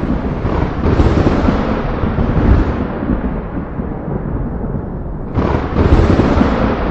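Rolling thunder rumbling loudly, easing off through the middle, then a fresh sharp crack about five seconds in that rolls on.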